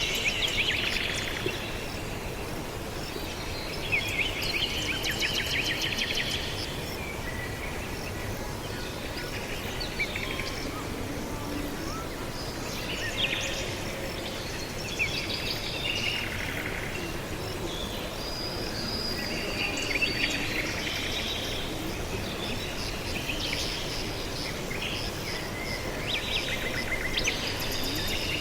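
Wild birds chirping and twittering in short bursts of rapid high notes every few seconds, over steady outdoor background noise.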